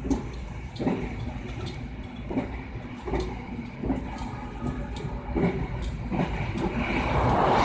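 Interior running noise of the Argo Bromo Anggrek express passenger coach at about 118 km/h: a steady low rumble of wheels on rails with a knock every second or so, and a louder rush of noise near the end.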